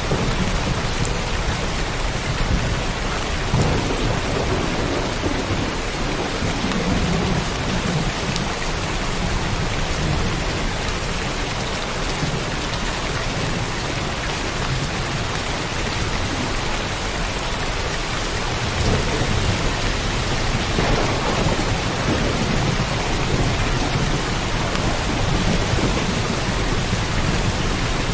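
Steady heavy rain falling, with low rolls of thunder rumbling twice, once a few seconds in and again about two-thirds of the way through.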